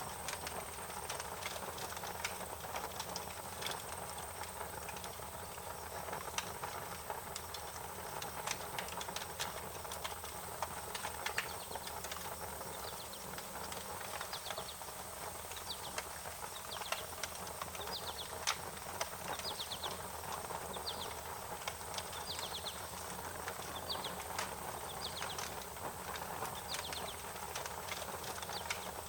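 Wood fire crackling, with scattered sharp pops over a steady hiss. From about halfway through, short high chirps repeat roughly once a second.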